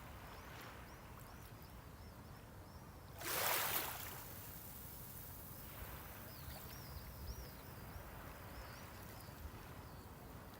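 Small sea waves lapping on a shore, with one louder wash of a wave breaking about three seconds in, and softer washes around it.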